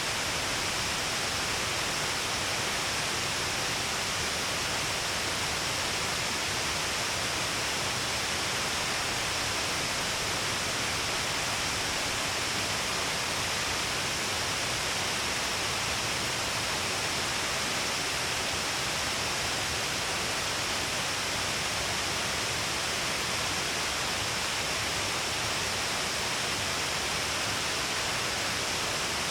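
Shiraito Falls, a broad curtain of many waterfalls falling along a cliff face, pouring with heavy flow: a steady, even rush of falling water with no change.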